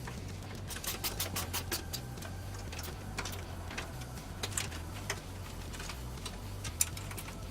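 Small parts being handled and fitted: a quick run of sharp clicks and taps, then scattered single clicks, over a steady low hum.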